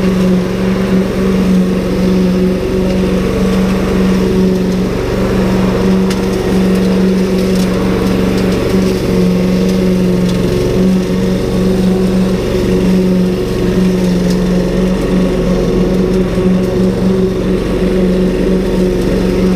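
Ryobi 190cc four-stroke petrol lawn mower with a Subaru engine, running steadily at a constant pitch while mowing grass.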